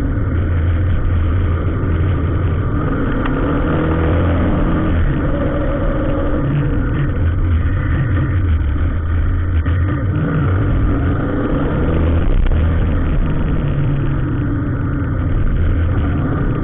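Motor vehicle engines running on the road: a steady, loud, low drone with the engine note slowly rising and falling.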